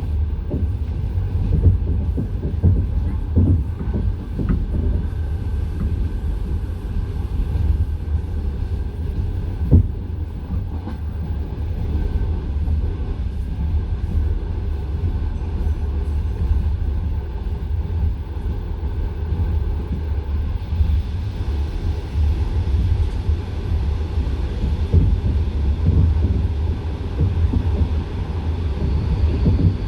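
Wheels of a passenger train carriage clattering on the rails, heard from inside the carriage: a steady low rumble with sharp knocks now and then, the loudest one about ten seconds in.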